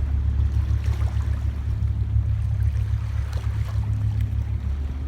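Steady low rumble with a faint even hum on the water, and a few light splashes.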